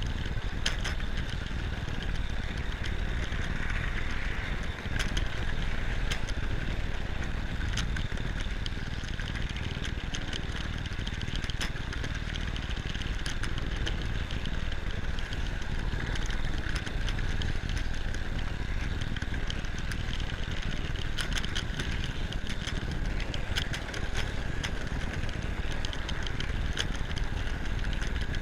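Hornby Dublo 3-rail model train running along its track, heard from a camera riding on the train: a steady motor hum over a rumble of wheels on rail, with sharp clicks now and then.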